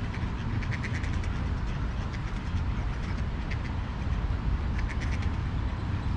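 Ducks quacking in short, rapid bursts about a second in and again near five seconds, over a steady low rumble of wind on the microphone.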